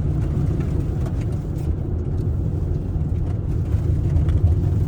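Steady low rumble of a car being driven, its engine and tyres on the road making an even drone.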